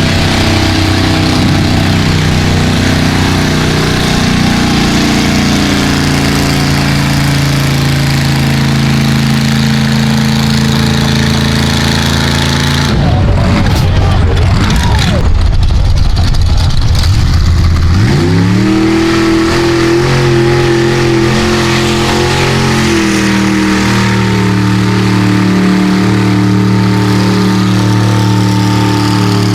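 Mega truck engine running steadily, then about halfway in a loud, rough stretch of full-throttle revving lasting about five seconds. After it the engine pitch climbs and holds at a steady higher note, easing down a little near the end.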